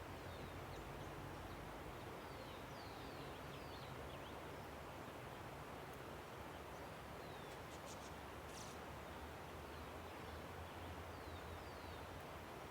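Faint, steady rush of a river with small birds chirping over it: short downward-sliding chirps scattered throughout, and a brief burst of higher calls about eight seconds in.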